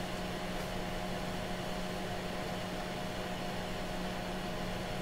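Steady hum with a faint higher whine over an even fan-like hiss, from running electronic test equipment on the bench.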